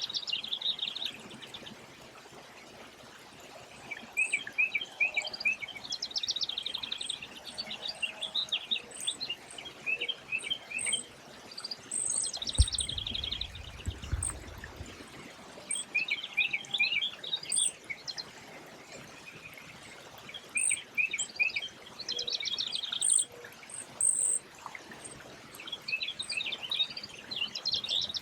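Songbird singing a short phrase of quick trilled notes, repeated every few seconds, with thin high chirps between phrases. A low rumble lasts a couple of seconds midway.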